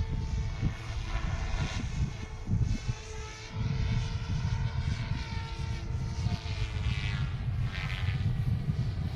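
GOOSKY RS4 Venom electric RC helicopter in flight, its rotor and motor whine drifting up and down in pitch, with strong wind buffeting the microphone.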